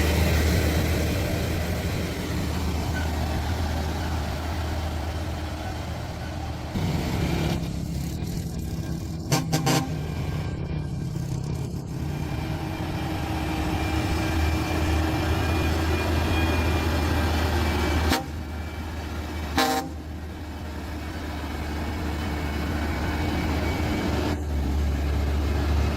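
Heavy semi-truck's diesel engine running steadily under load on a steep climb, with traffic noise around it. A couple of short horn toots sound, one about a third of the way in and another about two-thirds in.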